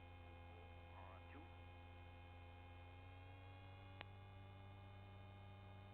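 Near silence on a muted intercom line: a faint steady electrical hum, with a single click about four seconds in.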